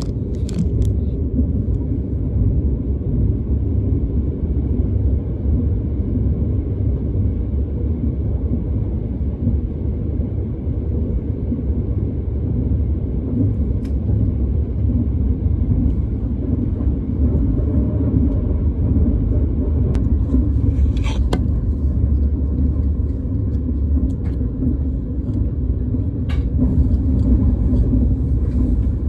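Steady low rumble of a moving train heard from inside the passenger car, with a few faint clicks and knocks.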